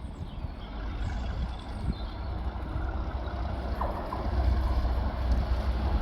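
Class 37 diesel locomotive running as it approaches, a low rumble growing louder about four seconds in.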